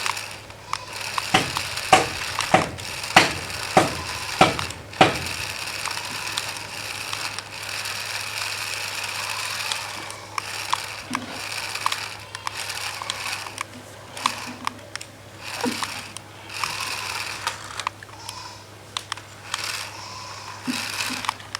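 Small electric motor and plastic gears of a toy RC car whirring steadily, with a run of regular knocks, about one and a half a second, during the first five seconds.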